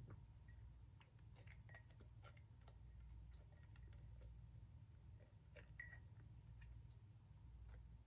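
Near silence: low room hum with a few faint, scattered small clicks.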